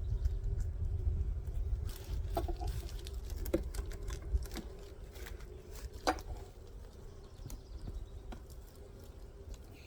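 Scattered wooden knocks and clicks of beehive frames and boxes being handled during a hive inspection, over a faint steady hum and low rumble.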